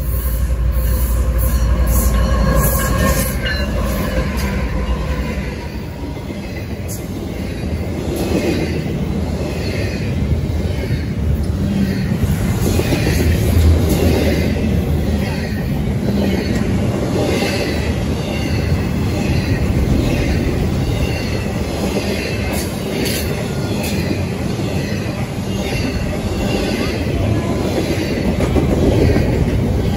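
Freight train passing close at speed. It opens with a heavy low rumble and a high ringing tone in the first few seconds, then settles into the steady rumble and rhythmic clatter of double-stack container cars' wheels over the rail joints.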